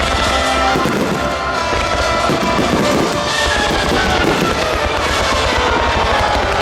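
Fireworks shells bursting several times over music playing along with the display.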